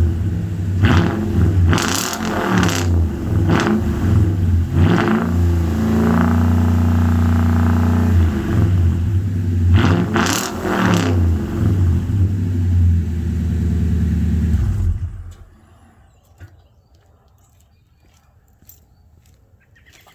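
2012 Toyota Tundra's 5.7-litre V8 through Flowmaster Super 10 mufflers on a true dual exhaust, revved in repeated quick blips, held at a raised speed for a few seconds, blipped again, then running lower until the sound stops abruptly about fifteen seconds in.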